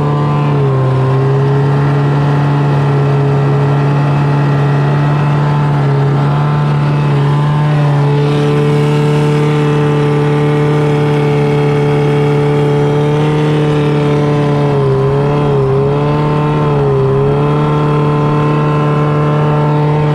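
The 600cc engine of a small jet boat runs at a steady, fairly high speed. Its pitch dips and recovers briefly twice in the last third, as the throttle eases off and comes back.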